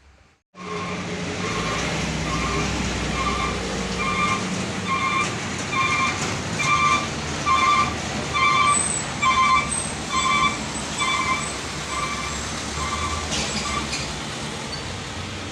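A loaded sugarcane truck's diesel engine running under load, with an electronic beeper sounding about twice a second over it and fading out near the end.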